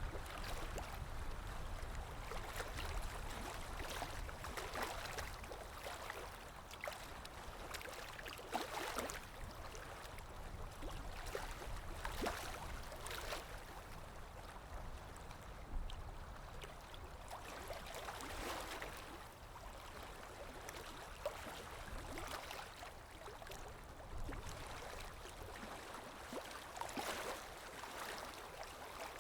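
Underwater ambience: muffled rushing and bubbling water over a low rumble, rising in irregular swells every few seconds, with occasional small bubble pops.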